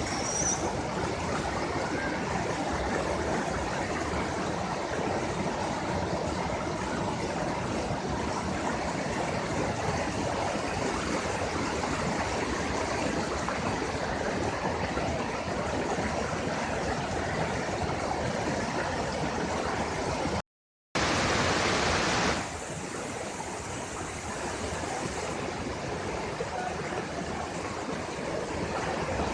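Waterfall: a steady rush of falling water. About twenty seconds in it cuts out briefly, comes back louder for a second or so, then carries on slightly quieter.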